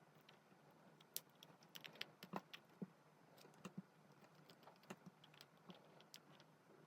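Faint, irregular clicks and light taps of small repair tools such as tweezers and pry tools against a phone's internal parts, busiest around the second and third second.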